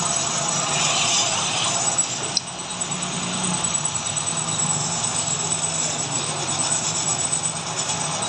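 Metal-turning lathe running steadily with a low hum and a hissing cutting noise, with one sharp click about two and a half seconds in.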